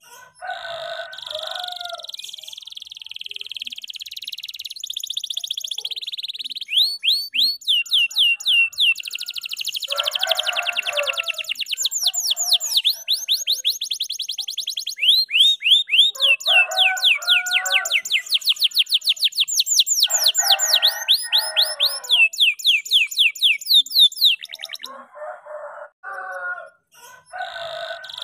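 F2YS canary singing a long unbroken song. A high buzzing trill comes first, then long runs of rapid, repeated sweeping chirps. A few short lower, rougher phrases are mixed in.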